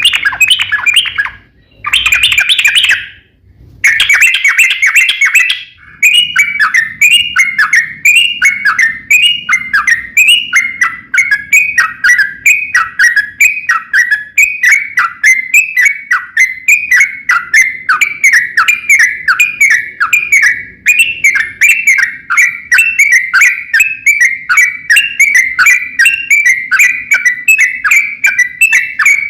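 Yellow-vented bulbul (trucukan) singing loudly. Two or three short chattering bursts come first, then from about four seconds a long unbroken run of repeated falling notes at about two a second: the long rolling song ('ropel panjang') that keepers play to make caged birds answer.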